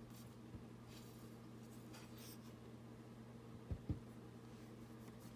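Faint rustling and brushing of paper being handled at a craft table, with two soft low thumps in quick succession about three and a half seconds in.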